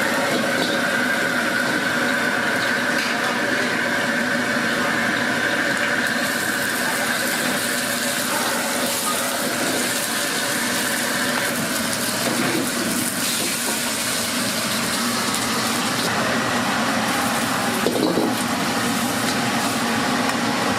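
Water running steadily, as from a kitchen tap filling a vessel or sink, with a faint steady whistle-like tone through the first half and a single knock near the end.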